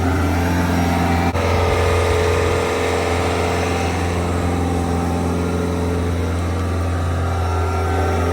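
Bobcat S66 skid steer's diesel engine running steadily, its pitch shifting a little as it works, with a brief click and dip about a second in.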